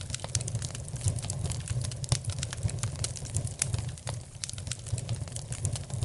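Wood fire crackling in a fireplace: irregular snaps and pops over a steady low rumble.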